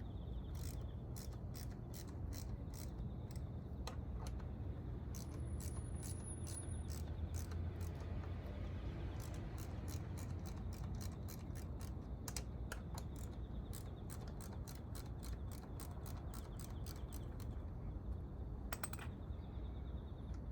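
Ratchet wrench clicking in a long run of short strokes, a few clicks a second, as engine fasteners are turned during disassembly, over a steady low hum.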